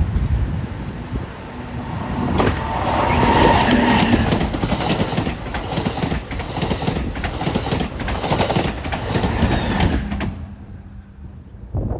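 A passenger train passing, its wheels clacking in quick succession over the rail joints, over a low rumble. The passing noise stops suddenly about ten seconds in.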